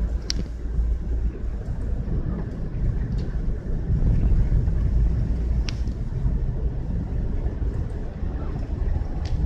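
A car driving, heard as a steady low rumble of road and engine noise, with three short sharp ticks spread through it.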